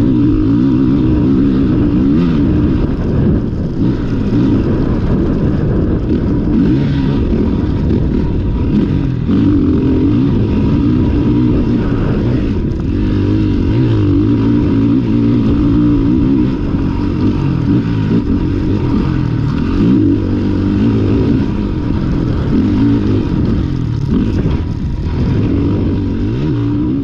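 Motocross dirt bike engine heard from an onboard camera, revving up and falling back again and again as the throttle opens and closes round the track.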